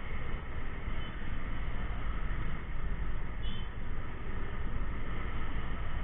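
Steady road traffic noise: engines running with a low rumble in slow, congested traffic. A brief, faint high-pitched chirp comes about three and a half seconds in.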